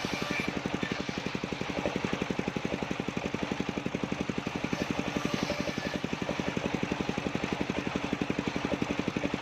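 Engine of a circular-saw sawmill running steadily with a fast, even pulse of about ten beats a second. No cutting is heard.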